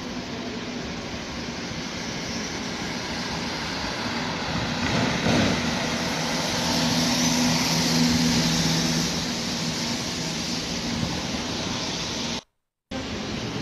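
Heavy rain falling steadily, a dense hiss. From about the middle a vehicle passes on the wet road, its low engine hum and tyre swish swelling and then fading. The sound cuts out briefly near the end.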